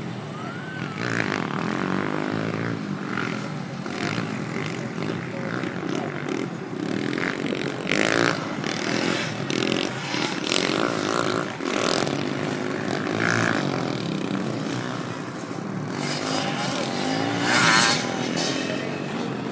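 Motocross dirt bike engines revving up and down as the bikes race, with the loudest burst of revving near the end.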